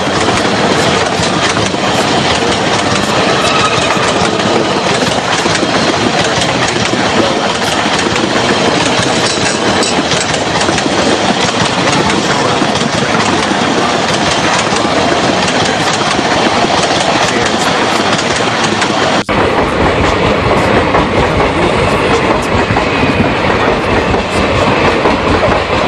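Train running along the track, a dense steady rumble of wheels on rails. About 19 s in the sound changes abruptly to a deeper rumble with less hiss.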